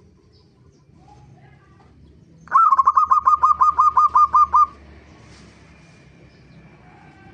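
Zebra dove (perkutut) calling: a rapid run of about a dozen short, evenly spaced notes lasting about two seconds, starting about two and a half seconds in.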